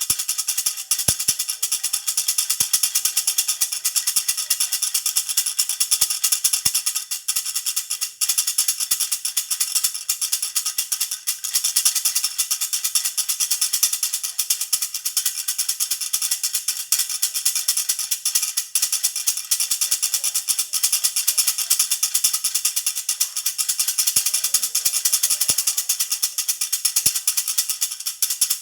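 Baby rattle (jhunjhuna) shaken continuously, a rapid, bright jingling rattle that keeps going without a break.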